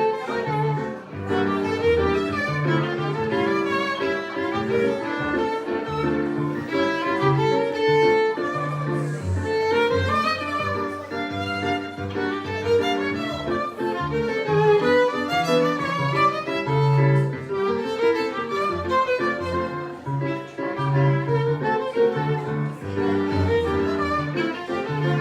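Violin and piano playing a choro: the violin carries a quick, busy melody over the piano's bass line and chords.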